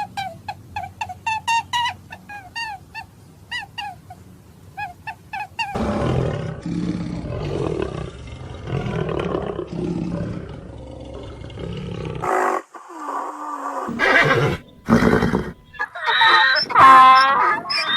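A sequence of animal calls: a run of short, quick chirping calls for about six seconds, then a long rough roar, then a few brief separate calls.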